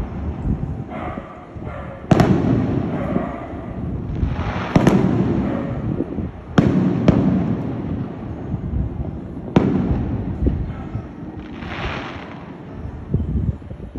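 Aerial fireworks shells bursting: about five sharp bangs spaced one to three seconds apart, each followed by a rolling rumble as it echoes away. Near the end comes a rising, hissing crackle.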